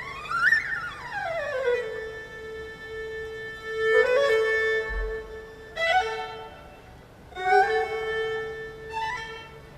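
Erhu, the Chinese two-string fiddle, playing a birdsong-imitating passage. It opens with a swooping slide up and back down, then plays long held notes broken by short phrases that begin with quick slides.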